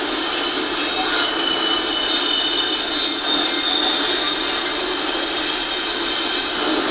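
Double-stack container train rolling past, its steel wheels squealing in several steady high-pitched tones over the constant rumble of the passing well cars.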